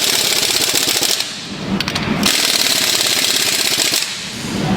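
Rapid, rattling metalworking noise in two bursts, breaking off about a second in and again near the end.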